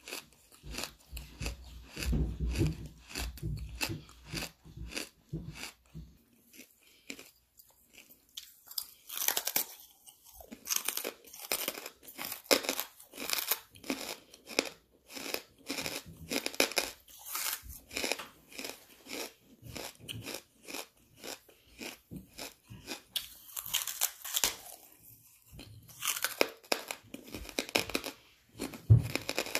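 Close-miked chewing of hard charcoal: rapid, dense crunching with short pauses about a quarter of the way in and again near the end.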